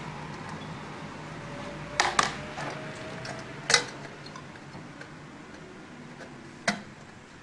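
A few sharp clicks and light knocks of small hard parts and tools being handled while a chocolate fountain is worked on: two close together about two seconds in, another just before four seconds, and one near the end, over a faint steady hum.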